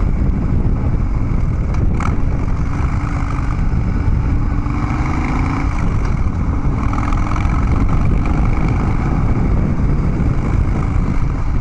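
Harley-Davidson Dyna Street Bob's V-twin engine running steadily under way at cruising speed, through aftermarket Vance & Hines Big Radius 2-into-2 exhaust pipes.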